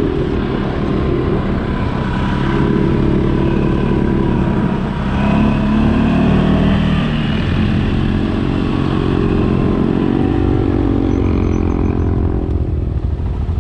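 CFMOTO ATV engine running under way, its revs rising and falling as the quad is ridden, easing off near the end.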